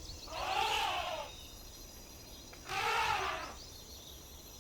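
An animal calling twice, each call about a second long and rising then falling in pitch, over faint high chirring of insects or birds.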